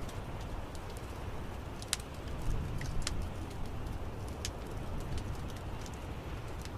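Wood fire in an outdoor fireplace crackling: scattered sharp pops and snaps at irregular moments over a steady low rumble of burning.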